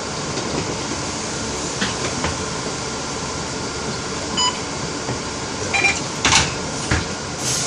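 Steady rushing noise, with a short electronic beep about halfway through and a few sharp clatters near the end.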